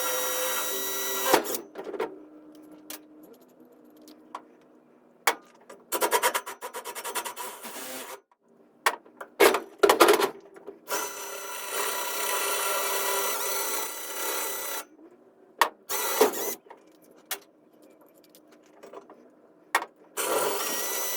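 Electric drill boring holes in the steel mounting tabs of a pickup's roll-bar light bar. It runs in several separate bursts: a run that stops about a second in, more about six seconds in, a long one of about four seconds in the middle and a short one near the end. Sharp knocks and clicks from handling the metal parts fall in the pauses between the bursts.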